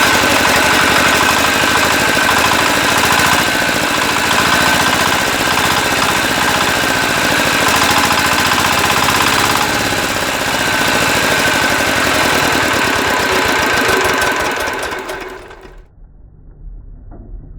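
Single-cylinder diesel engine of a walk-behind tractor running hard with a fast, rapid knocking beat; it cuts off about fifteen seconds in.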